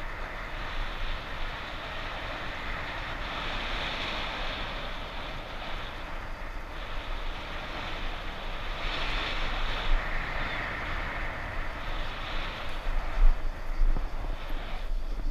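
Strong wind buffeting the microphone: a steady rushing hiss with an uneven low rumble, gustier and louder near the end.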